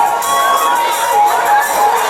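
An audience cheering and making noise over instrumental stage music.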